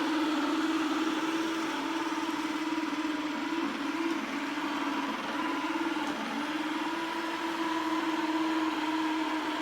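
Robot vacuum cleaner running, a steady motor whine over the hiss of suction, wavering slightly in pitch now and then.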